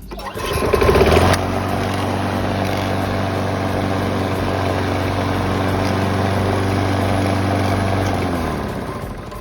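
Craftsman self-propelled lawn mower's 7 HP Briggs & Stratton engine starting up about a second in, then running at a steady speed before fading away near the end. The owner calls the engine knocking and shaky.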